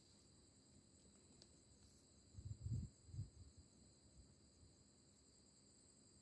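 Faint, steady, high-pitched chirring of insects, with a few dull low bumps about two and a half to three seconds in.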